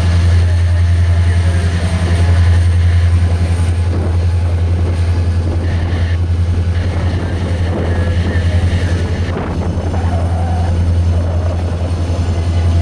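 Norfolk Southern SD70ACe diesel-electric locomotives pass with a steady, loud low engine drone, followed by freight cars rolling over the rails with a rumble and faint high wheel squeals.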